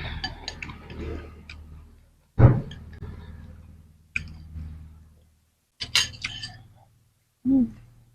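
Close-miked eating: several short bursts of biting and chewing, with crisp crackling clicks from crunching raw vegetables. The loudest bite comes about two and a half seconds in.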